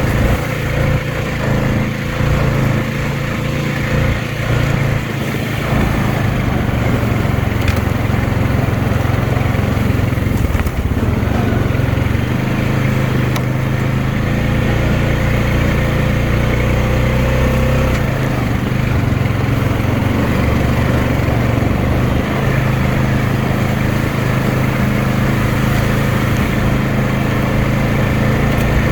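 2020 Honda Rubicon 520 ATV's single-cylinder engine running steadily while riding along a trail, its pitch shifting slightly a few times.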